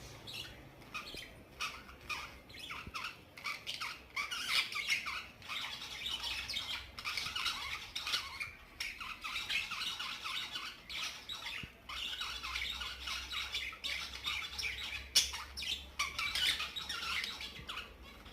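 Budgerigars chattering in a continuous stream of short squawks and chirps, with one sharper, louder call about fifteen seconds in.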